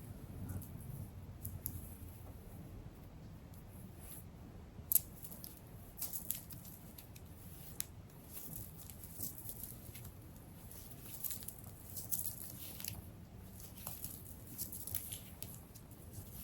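Faint rustling and crackling of fingers sectioning and plaiting blow-dried hair, with scattered small clicks and a sharper click about five seconds in.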